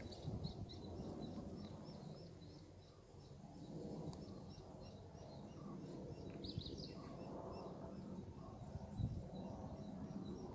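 Outdoor ambience: a bird chirping in a quick, steady series of small high chirps, with a brighter burst of calls about six and a half seconds in, over a low rumble.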